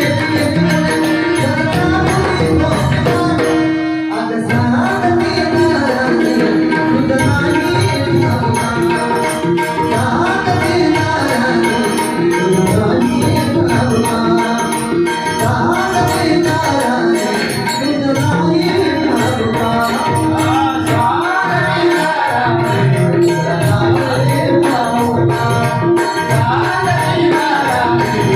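Marathi gaulan devotional song: a hand-drum rhythm under a sustained melodic accompaniment, with singing.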